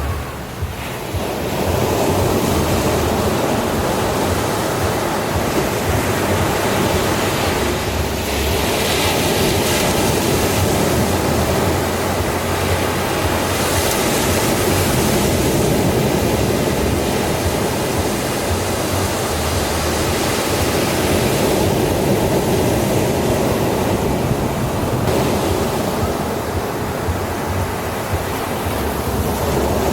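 Ocean surf: waves washing in as a continuous rushing noise, briefly softer near the start and then steady.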